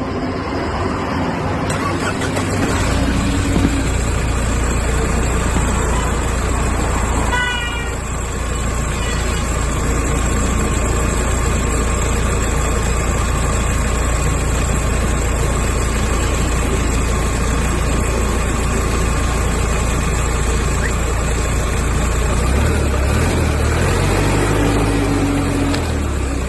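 Toy vehicle's engine sound running as a steady drone, with a short horn-like toot of stepped, falling tones about seven and a half seconds in.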